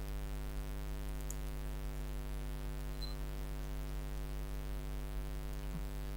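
Steady electrical mains hum with a ladder of overtones, unchanging throughout.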